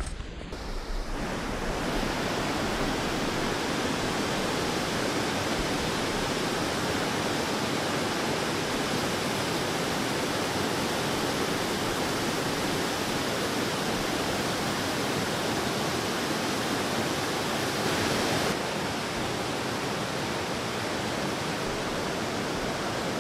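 Rushing white water of a waterfall, a steady dense hiss of falling water that eases slightly and loses a little of its treble near the end.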